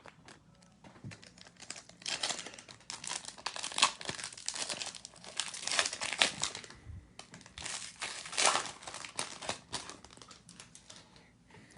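Wrapper of a 2021 AEW trading card pack being torn open and crinkled by hand: a dense run of irregular crackles starting about two seconds in and tailing off near the end.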